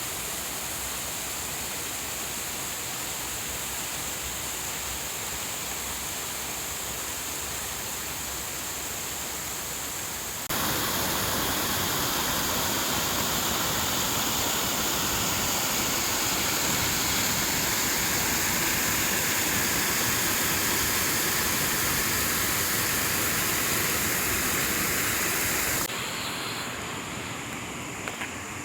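Steady rush of running water, like a stream or overflow pouring over a check dam. It jumps abruptly louder about a third of the way in and drops back abruptly near the end.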